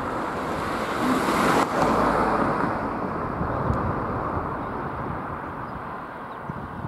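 A vehicle passing close by with a rushing noise that swells to its loudest about two seconds in, then slowly fades.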